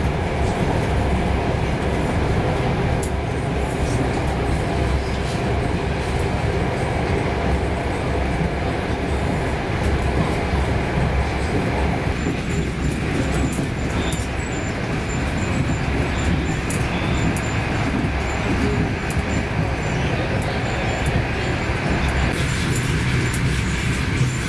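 Passenger train running along the track: a steady rumble of wheels on rails with faint scattered clicks.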